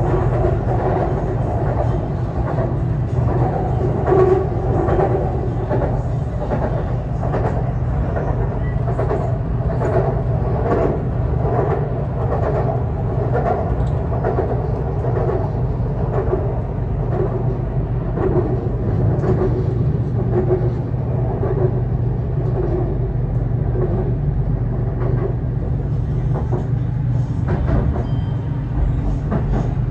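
BTS Skytrain EMU-B1 electric train running, a steady low rumble with a mid-range hum and faint regular clicks from the wheels about once a second.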